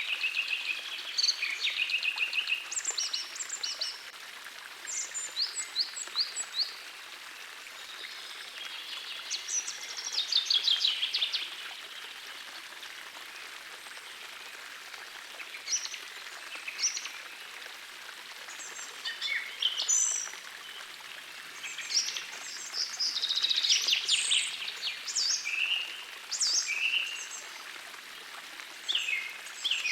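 Several songbirds singing in short bouts of rapid trills and chirps, one after another, over the steady hiss of a gently flowing forest stream.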